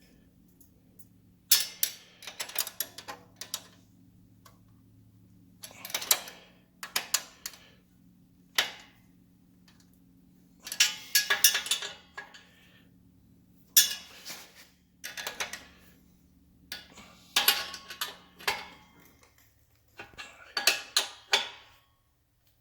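Ratchet wrench clicking in short bursts of rapid ticks, separated by pauses, with light metal clinks, as nuts are tightened down.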